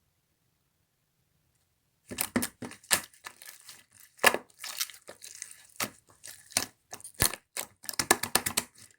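Slime being squeezed and pressed by hand, giving a run of sharp crackling pops and clicks that starts about two seconds in, after silence.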